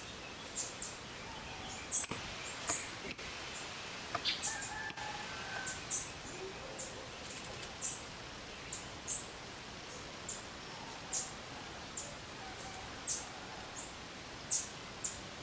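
Short, high bird chirps, repeated irregularly at about one a second, over a steady hiss of outdoor background noise.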